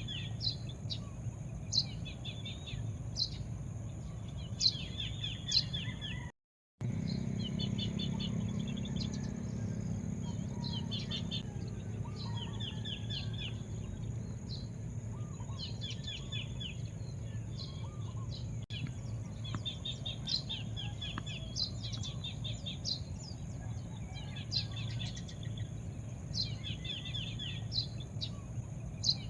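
Birds chirping over and over in short trilled phrases with sharp high notes, against a steady high-pitched insect drone and a low background rumble. The sound cuts out completely for a moment about six seconds in.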